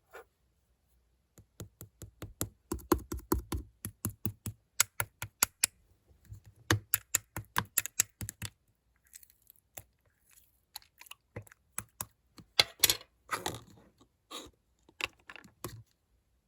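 Slime being pressed and worked by hand, giving a quick run of sharp clicks and pops, with a few longer squelching stretches in the last few seconds.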